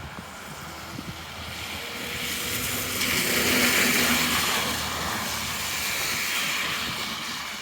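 A motor vehicle drives past on the street: engine and tyre noise grows over the first few seconds, is loudest about three and a half seconds in, and eases off near the end.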